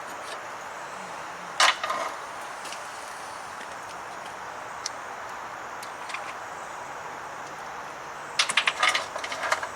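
Metal clinks and clatter from hand tools or parts being handled: one loud clatter about a second and a half in, then a quick run of clinks near the end, over a steady background hiss.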